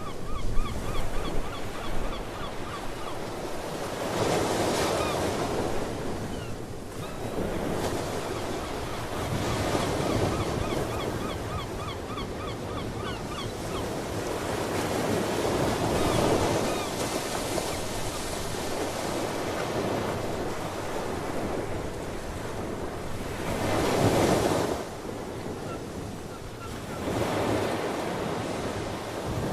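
Ocean surf: waves breaking and washing in over a steady rush, swelling every few seconds, with wind on the microphone. Seabirds call faintly in quick runs of short repeated notes in the first few seconds and again around the middle.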